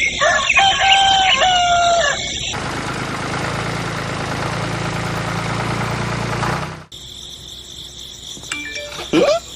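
A rooster crowing once for about two seconds. It is followed by a steady rushing noise with a low hum that lasts about four seconds and cuts off suddenly.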